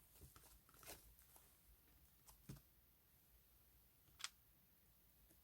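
Near silence in a small room, broken by a few faint, sharp clicks or taps, the loudest a little past four seconds in.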